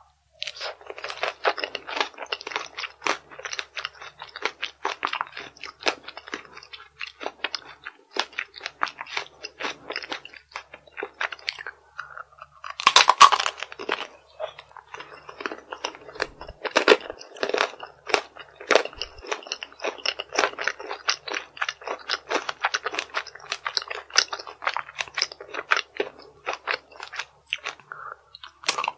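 Close-miked crunching and chewing of chocolate strawberry tanghulu, the hard coating crackling rapidly in the mouth, with one louder bite about halfway through.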